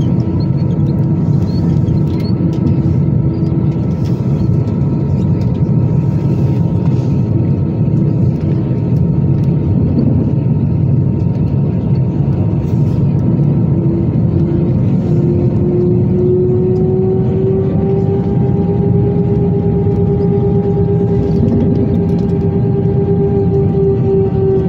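Airbus A320-214's CFM56 jet engines heard from inside the cabin: a loud, steady rush with a steady whine. About fourteen seconds in, a second whine rises in pitch and grows louder, then holds.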